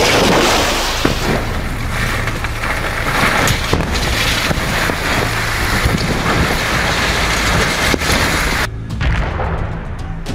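Loud rumble and crashing of a building collapsing in a demolition, with debris cracking and pattering throughout; the sound changes abruptly near the end.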